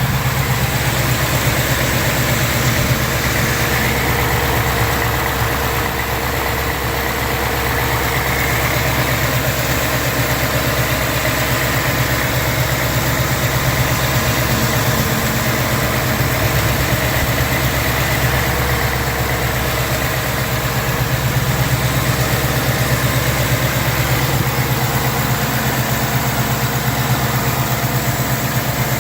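Ford Mustang GT's 5.0-litre V8 idling steadily, heard from the open engine bay. No clear typewriter tick stands out: the owner finds it sounds great from here.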